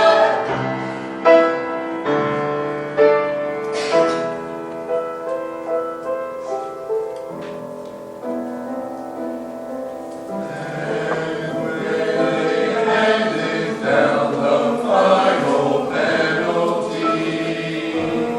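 Choir singing with instrumental accompaniment, with struck notes marking the first half; the music drops to its softest about eight seconds in, then swells fuller from about ten seconds.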